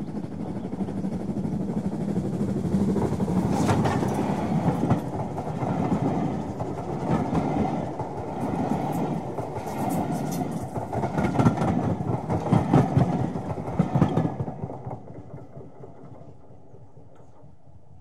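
A train passing close by, its wheels clattering over the rail joints, fading away about three-quarters of the way through.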